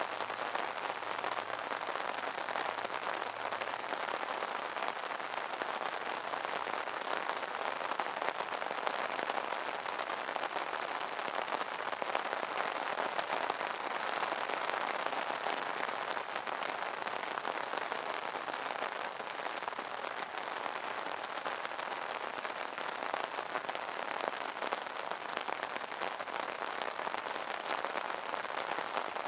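Rain falling on an umbrella: a steady, dense pattering of drops on the stretched canopy.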